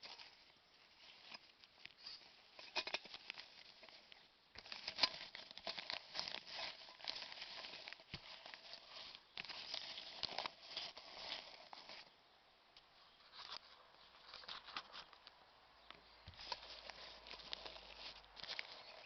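Irregular light clicks, taps and rustling of small objects being handled, with a few sharper clicks.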